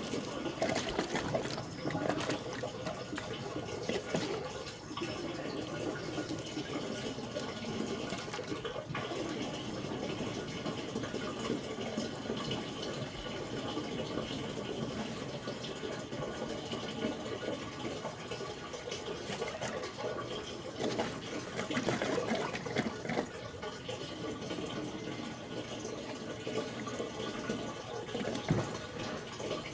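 Diesel exhaust fluid being poured from a jug into a truck's DEF tank, a steady run of liquid.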